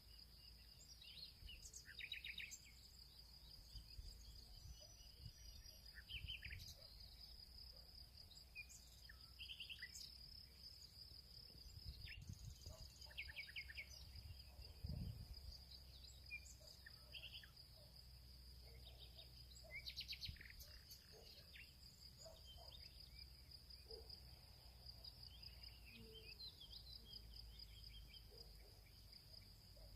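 Faint field ambience: a steady high insect trill runs throughout, with scattered short bird calls and chirps and a low rumble underneath.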